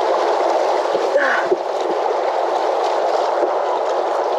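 Steady rush of moving river water around kayaks, with some splashing.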